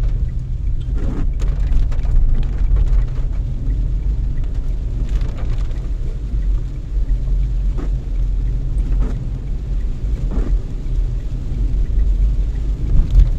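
Renault Triber car driving on a wet road in light rain: a steady low rumble of road and engine noise, with a few faint swishes now and then.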